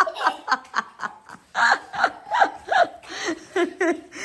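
People laughing: rapid, repeated bursts of giggling and snickering, a child's voice among them.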